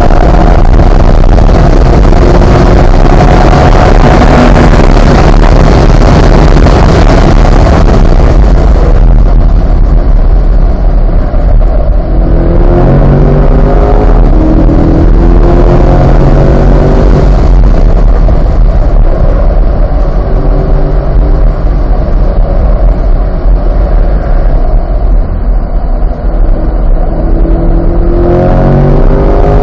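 Corvette C8's 6.2-litre V8 heard onboard at speed: heavy full-range noise for about eight seconds, then easing off. After that the engine note climbs again several times as the car accelerates.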